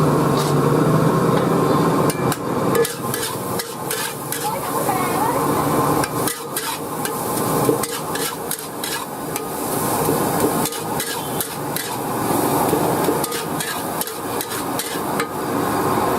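Metal spatula clanking and scraping against a wok during stir-frying, with irregular sharp knocks, over a steady hum.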